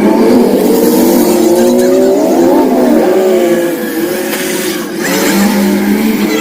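Engines of several compact demolition-derby cars running and revving together, their pitches gliding up and down, with one rising and falling about two and a half seconds in.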